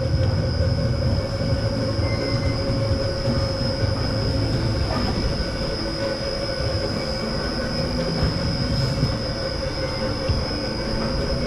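Carousel running: a steady rumble from the turning platform and its drive, with a constant high-pitched whine and a lower steady hum over it.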